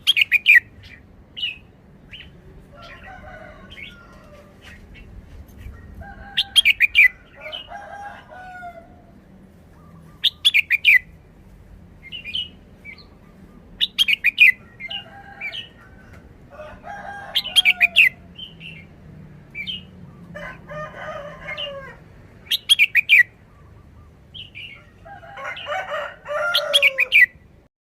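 Red-whiskered bulbul singing short, loud, chirping song phrases every three to four seconds, with softer warbling notes in between.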